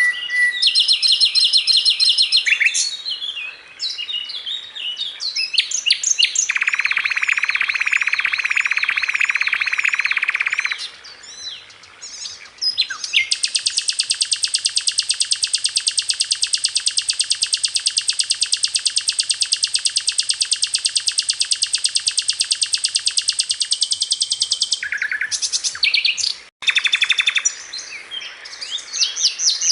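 Sikatan londo (flycatcher) song from a masteran track: varied high chirps and trills, including a buzzy trill lasting about four seconds and a long, very rapid, even trill of some twelve seconds near the middle.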